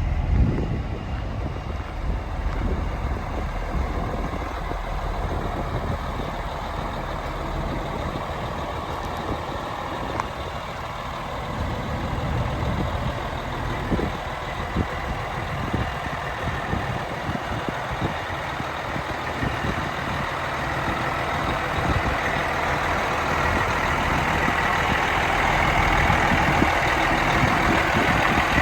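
Cummins diesel engine of a 1995 White/GMC tandem-axle truck running steadily, getting louder over the last several seconds.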